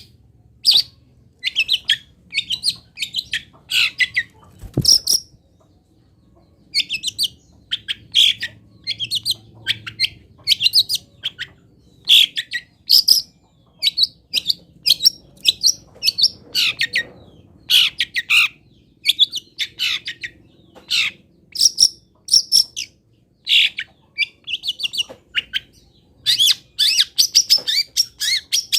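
Songbird singing a fast, varied series of short, high chirping phrases, a master recording of the song 'filling' used to train long-tailed shrikes (cendet), with a brief pause about six seconds in. A single dull thump sounds near five seconds.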